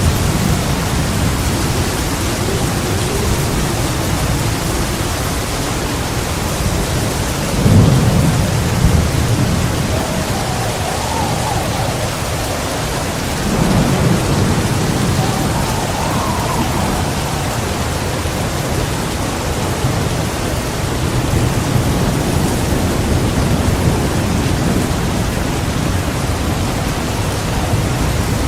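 Heavy rain pouring steadily, with thunder rumbling low beneath it; two louder rolls of thunder come about 8 and 14 seconds in.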